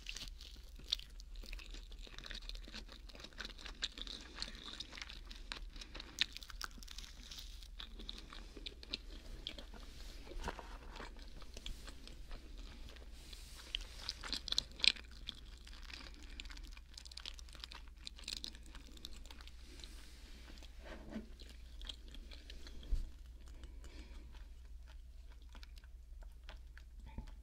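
Close-up chewing of a mac and cheese sandwich: steady mouth sounds with many small irregular clicks and a few louder ones near the middle.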